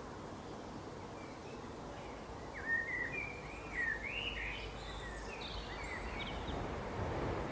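Wild birds singing over a steady background of ambient noise: a run of short sliding chirps and whistles begins about two and a half seconds in, and the sound cuts off suddenly at the end.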